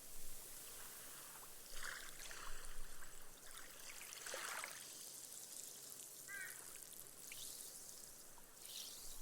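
Small ripples lapping gently on a sandy shore, the water seeping into the sand with a faint fizzing hiss of foam. Soft washes come a few seconds apart.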